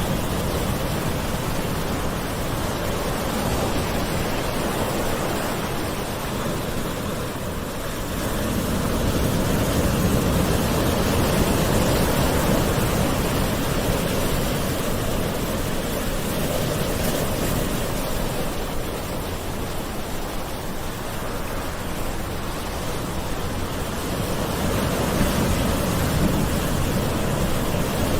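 Ocean surf washing on the shore in a continuous wash, swelling and easing slowly every ten seconds or so.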